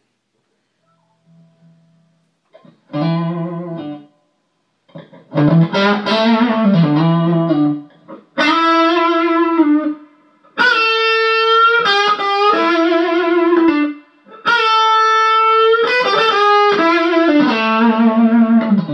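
A blues melody played on an instrument, in held, bending notes grouped into phrases with short pauses between them.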